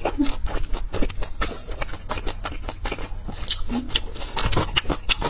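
Close-miked chewing of a mouthful of soft dumpling: many quick, wet mouth smacks and clicks.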